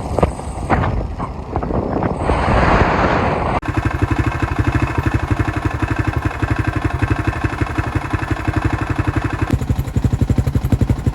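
Wind noise and a few knocks at first. Then, after a sudden cut, the 1990 enduro motorcycle's engine runs steadily with a fast, even beat of firing pulses.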